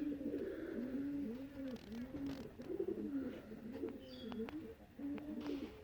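Pigeons cooing: low rising-and-falling coos that repeat and overlap about twice a second.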